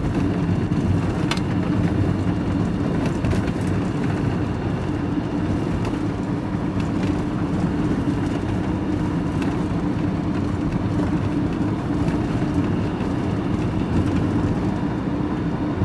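Vehicle engine and road noise heard from inside the cab while driving at a steady pace, with a constant low engine hum.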